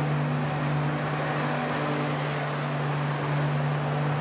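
A passenger train's coaches rolling past at close range, with the steady hum of the diesel generator sets in its power car running under the rumble of wheels on rail.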